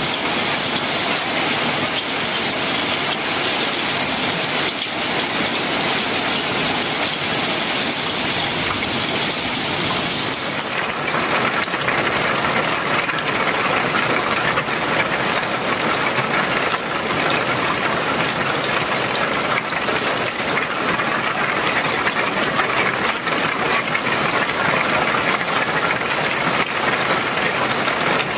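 Heavy rain falling on a rusty corrugated metal roof. About ten seconds in the sound changes to a duller, lower rush of rain pouring off roof edges in streams.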